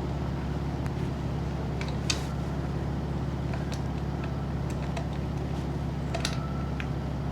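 A steady low mechanical hum with a few light, sharp clicks and taps of tools being handled, the clearest about two seconds in and again near six seconds.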